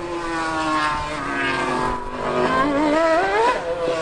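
High-revving racing engines during a car-versus-superbike drag run. The pitch falls over the first two seconds, as of a machine passing, then climbs sharply about three seconds in as an engine revs up, and drops again near the end.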